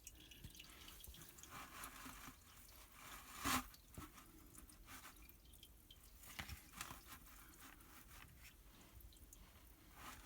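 Engine oil dripping from the drain hole into a drain pan: faint, irregular drips as the drain slows to its end, with one louder plop about three and a half seconds in.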